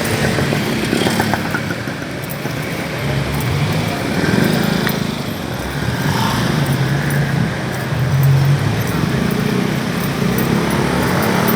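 City street traffic: motorcycle and vehicle engines passing close by over a steady street din, the engines swelling about three seconds in and again near eight seconds.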